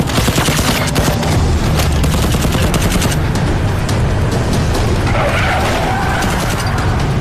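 Action-film gunfight: bursts of rapid gunfire, thickest in the first three seconds, over a dense, loud score.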